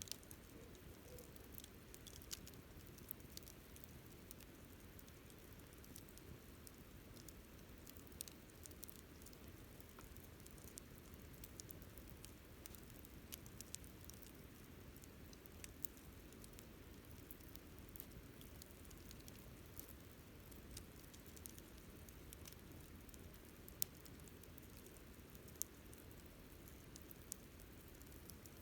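Wood fire crackling: scattered sharp snaps and pops over a low, steady rush of burning, with one louder pop about three quarters of the way through.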